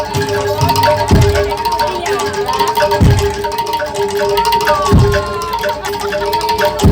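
Live Javanese gamelan music for a jaranan dance: metal mallet instruments repeat a few steady notes while a deep drum strikes about every two seconds, each stroke dropping in pitch, with a gliding melodic line over the top near the middle.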